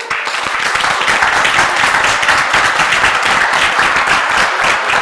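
Audience applauding: dense, steady clapping that breaks out at once as the song's music stops.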